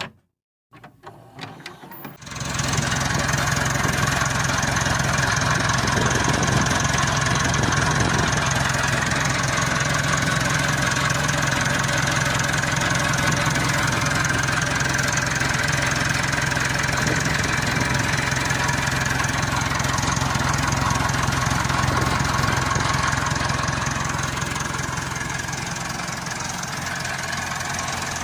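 Turbocharged Massey Ferguson 265 S tractor diesel engine being started: the starter cranks it for about a second and a half, then it catches about two seconds in and runs steadily with its turbo exhaust sound. It gets a little quieter near the end.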